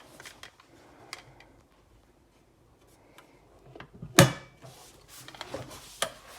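Handling noises from an electric kettle and its parts: scattered light clicks and rustles, then a sharp, loud knock about four seconds in and another near the end.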